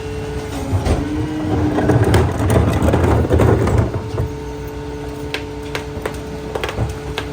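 McNeilus rear-loader garbage truck packing recyclables. A steady mechanical whine runs under a louder stretch of crunching and low rumble between about two and four seconds in, with sharp cracks and pops later as the load is crushed.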